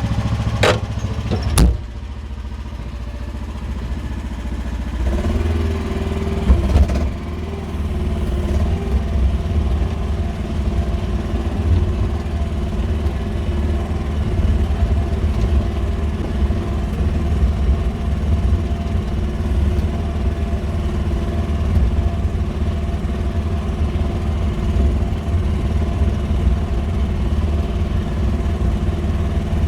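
QH13R mini excavator's engine running steadily as the machine is worked. There are two sharp knocks in the first two seconds, and the sound grows a little louder a few seconds later.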